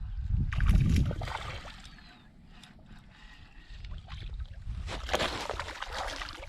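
Wind buffeting the microphone in gusts, loudest about a second in, with water splashing and sloshing against a kayak near the end.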